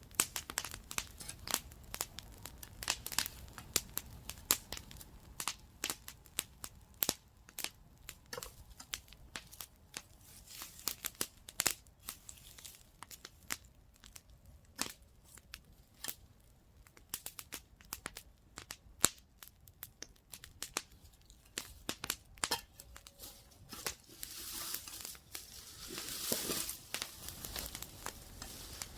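Wood campfire crackling, with irregular sharp pops and snaps. A stretch of hissing rises near the end.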